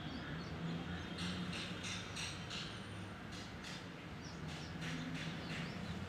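Birds calling from the trees in runs of short, repeated call notes, about three a second with pauses between the runs, over a steady low hum.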